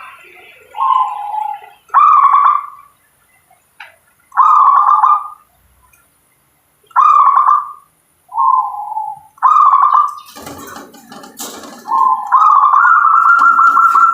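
Zebra dove (perkutut) cooing: a string of short rolling coo phrases, about six in the first ten seconds, then a long rapid trilled coo that starts about twelve seconds in. A brief noisy rustle with a sharp click comes between the phrases about two-thirds of the way through.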